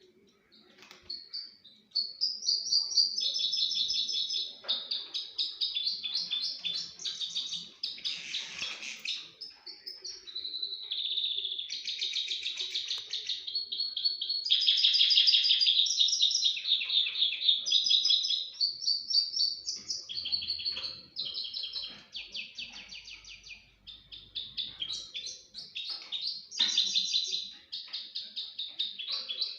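Common crossbill singing: a long, nearly unbroken run of rapid chattering trills and twittering notes, with a few short breaks.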